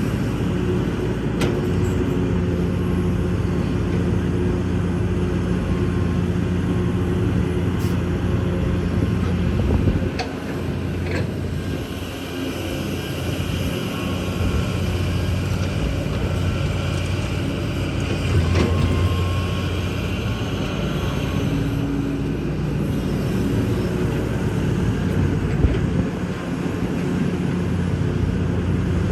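Kobelco excavator's diesel engine running steadily under work, its note shifting a couple of times, with a few short knocks.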